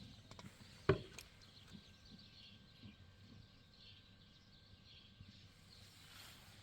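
Quiet outdoor ambience with faint bird chirps and a single sharp knock about a second in.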